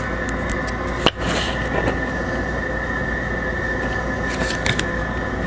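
A steady background hum and noise, with one sharp click about a second in and a few faint ticks and rustles in the second half.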